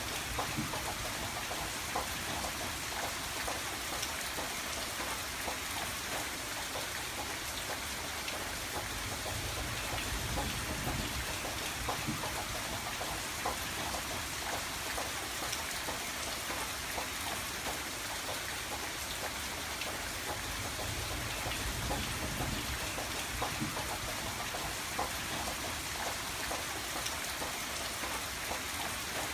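Steady rain pattering on a window pane, many small drop ticks over an even hiss.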